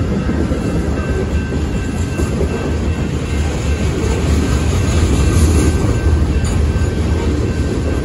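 Loaded freight cars, tank cars and covered hoppers, rolling past: a steady rumble of steel wheels on the rails.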